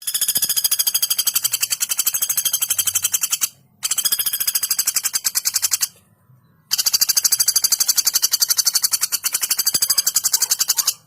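Female common flameback woodpecker giving long, rapid, evenly pulsed rattling calls, three runs broken by short pauses about three and a half and six seconds in.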